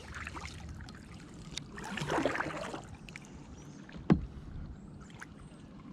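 Kayak being paddled on calm spring water: paddle strokes and water movement, louder about two seconds in, with one sharp knock a little after four seconds.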